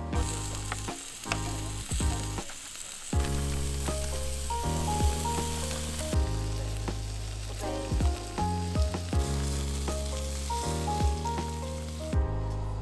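Food sizzling and frying in a hot pan over background music; the sizzling cuts off abruptly near the end.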